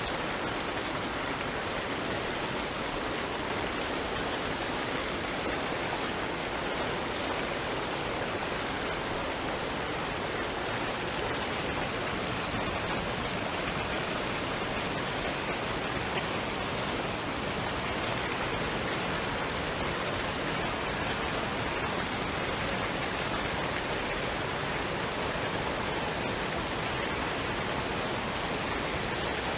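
Waterfall and stream water running in a steady, unbroken rush.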